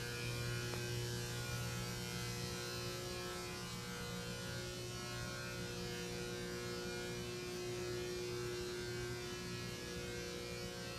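A steady hum made of several constant tones, unchanging throughout.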